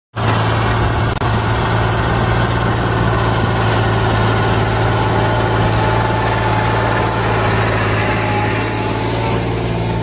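John Deere 8200 tractor's diesel engine running at a steady speed, a loud even hum with no change in pitch.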